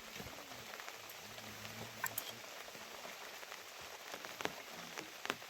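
Steady rain falling, with scattered sharp ticks of single drops landing.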